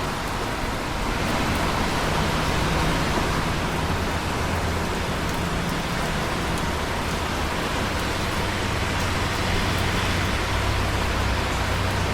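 Steady rain falling, an even dense hiss with a faint low rumble underneath and scattered drop ticks.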